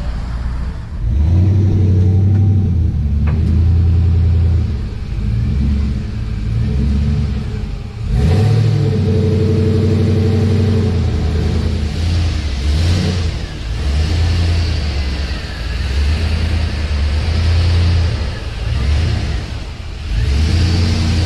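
V8 engine revving and accelerating hard several times, its pitch surging and stepping between pulls.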